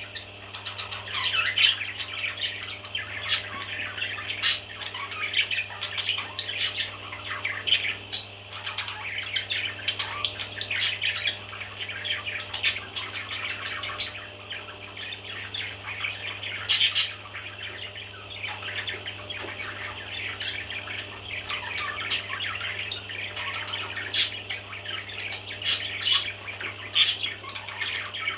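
Baby parrots chirping continuously, a dense chatter of many small calls with louder sharp squawks every few seconds, over a steady low hum.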